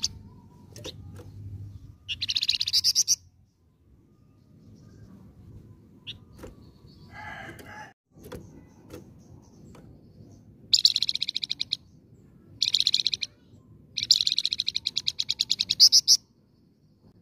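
A flamboyan songbird singing in bouts of rapid, evenly repeated high notes, each a fast rattling trill. There are four bouts: one about two seconds in, two in quick succession past the middle, and a longer one near the end.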